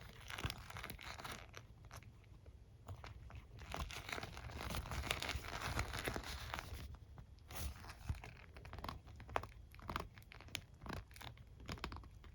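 A hairbrush and comb rubbed, scratched and tapped close to the microphone. Dense crackly scratching comes in two spells, early and in the middle, then gives way to separate quick clicks and strokes.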